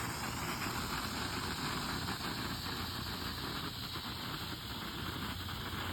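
Small ground firework burning with a steady hiss and faint crackle, with a brief falling whistle just at the start.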